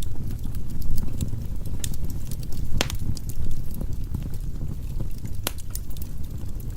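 Firewood burning in a fireplace: a steady low rumble of the flames with scattered sharp crackles and pops from the logs, two of them louder, a little before the middle and again later on.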